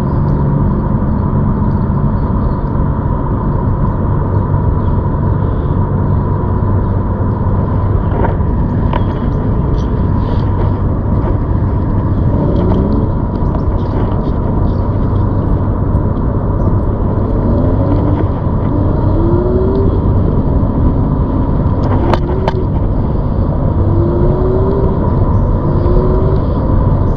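Steady riding noise from a ZOOZ electric bike on the move: a constant rumble with a steady hum, and wind on the microphone.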